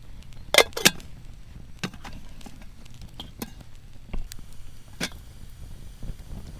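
A few separate sharp knocks and clacks over a low, steady rumble: two loud ones close together about half a second in, then single ones every second or so.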